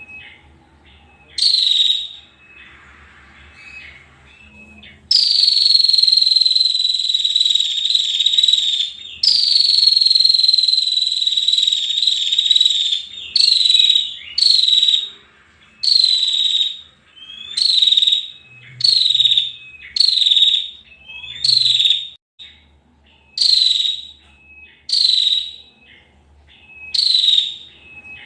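Female prenjak (prinia) calling: short buzzy calls about one a second, each dropping slightly in pitch, with two long calls of about four seconds each in the first half.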